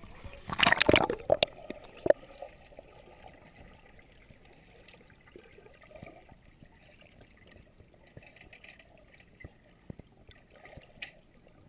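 A brief loud rush of noise about half a second in, with a sharp click near two seconds, then faint gurgling and trickling water around the egress trainer's pool.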